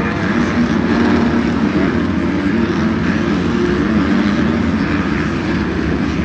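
Several 250cc motocross bike engines running on the track, an overlapping drone whose pitch wavers as the riders work the throttle.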